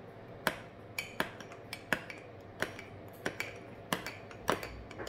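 Kitchen utensils clinking against dishes: about a dozen sharp, irregular clinks, one or two a second.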